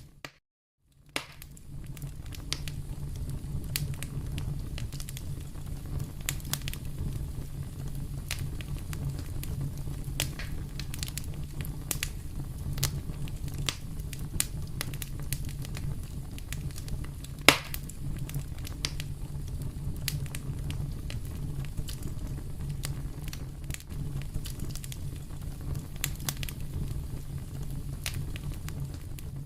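Fireplace fire crackling: a steady low rumble of the flames with frequent small crackles, and one sharp, louder pop a little past the middle. The sound drops out briefly right at the start.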